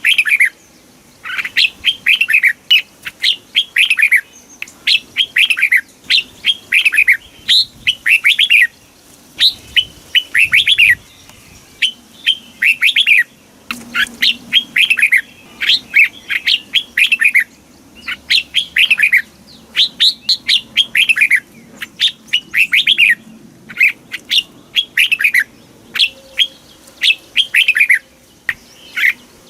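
Red-whiskered bulbul singing: short phrases of quick, clear whistled notes, each note sliding down in pitch, repeated over and over with brief pauses between phrases.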